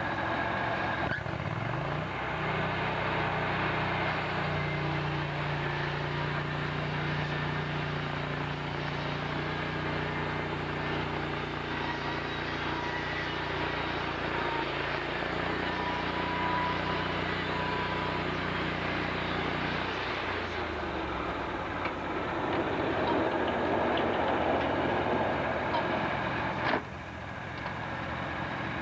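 Sawmill machinery running. A motor's hum rises to a steady pitch about two seconds in and winds down about twenty seconds in, under a continuous rough mechanical noise that cuts off abruptly near the end.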